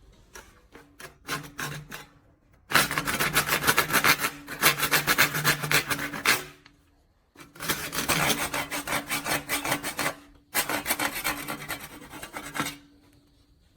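Rough, rapid scraping strokes on wood, like rasping or filing, in three long runs of a few seconds each with short pauses between.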